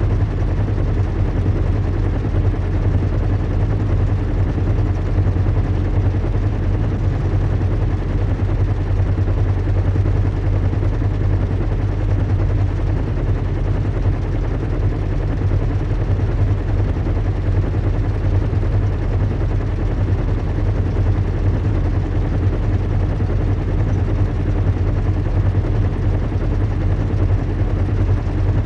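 Recreated sound of a zeppelin airship in flight: a steady, unchanging low rumble and hum of engines with an even rushing noise over it.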